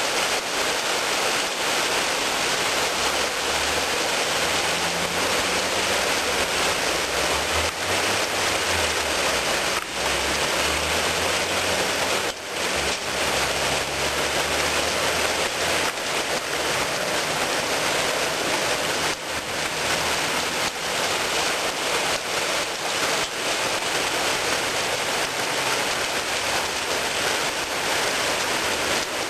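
Heavy rain pouring down, a steady dense hiss of rain on hard surfaces. A low hum runs underneath through the first half.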